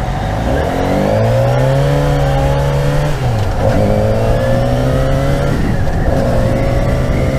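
2012 Yamaha FZ6R's 600cc inline-four engine pulling under throttle while riding. Its pitch rises, drops sharply about three seconds in and again about five and a half seconds in as it shifts up a gear, then holds steady, with wind rushing beneath.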